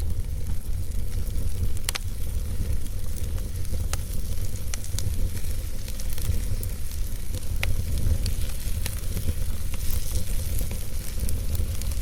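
Fireplace fire burning: a steady low rumble with a hissing crackle and scattered sharp pops.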